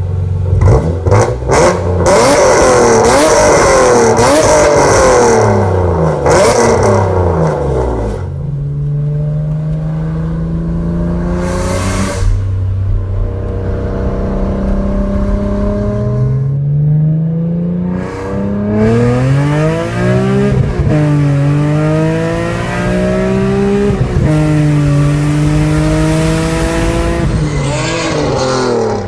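2002 BMW E46 M3's S54 straight-six through eBay headers, an AR20 resonator and a Megan Racing muffler: loud, quick revs for about the first eight seconds, then longer pulls with the pitch climbing steadily and dropping back twice.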